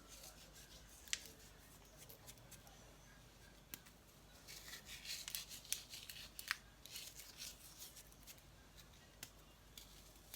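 Faint crackling and rustling of a digestive biscuit being crumbled between the fingers, with a few sharp clicks and a busier run of crunching around the middle.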